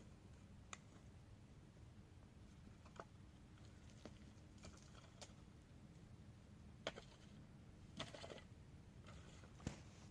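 Faint, scattered clicks and taps at irregular intervals over a low background rumble, with a small cluster a little past the middle and a sharper one near the end.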